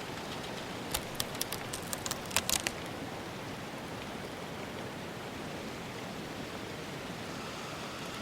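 A steady rushing noise, like wind or rain, with a quick run of about ten sharp clicks or snaps about a second in, lasting under two seconds.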